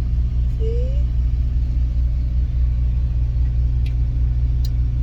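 Steady low rumble of a semi truck's diesel engine idling, heard from inside the cab. A brief rising squeak comes about a second in, and two faint clicks near the end.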